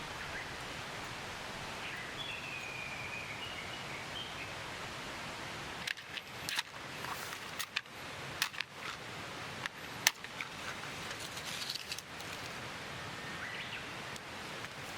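Forest ambience: a steady rushing hiss with a short wavering bird call about two seconds in, then a run of sharp snaps and clicks from about six to twelve seconds in.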